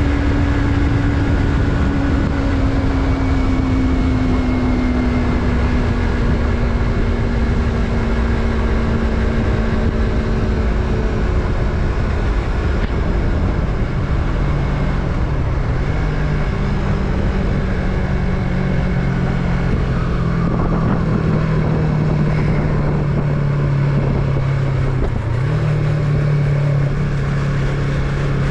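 Yamaha MT-03's parallel-twin engine running on the move. Its note falls slowly over the first ten seconds or so as the revs drop, then holds steady at lower revs, with a brief dip near the end.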